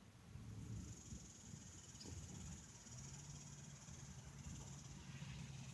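Faint low rumble of distant thunder, with a steady high insect hiss. A steady low hum joins about three seconds in.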